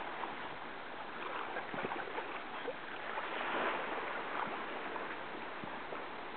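Shallow sea water sloshing and splashing in a steady wash, with scattered small splashes.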